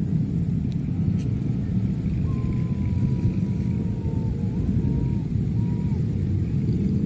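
Airbus A330 jet airliner's engines heard as a steady, deep rumble, typical of a big jet on its takeoff run or climb-out.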